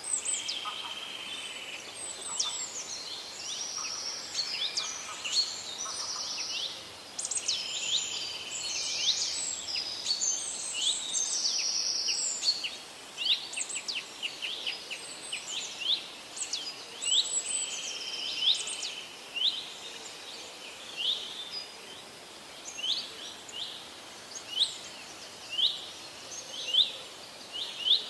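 Several parrots calling: quick, sharp, high chirps mixed with harsh buzzy screeches. In the last third the calls thin out to single sharp chirps, about one every second or so.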